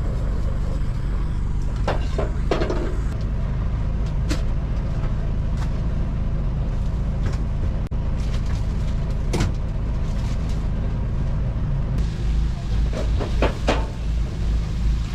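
A steady low mechanical hum, like a running engine or generator, with occasional knocks and clatter of containers and doors being handled.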